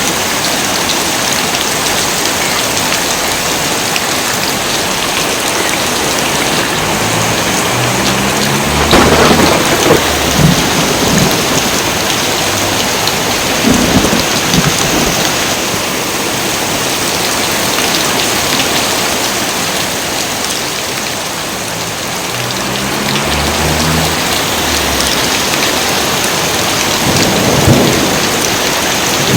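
Heavy rain pouring steadily, with thunder rumbling several times: a long roll about a third of the way in, a shorter one around the middle, another later on and one more near the end.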